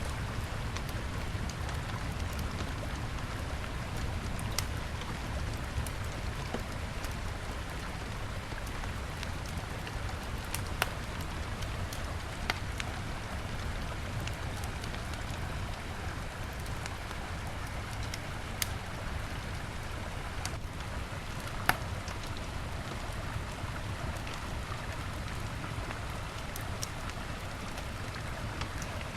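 Wood fire crackling, with a few sharp pops scattered through (the loudest about 22 s in), over the steady rush of a river.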